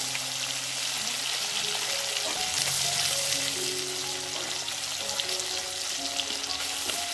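Egg pakoda pieces sizzling steadily in hot oil in a kadai, with soft background music.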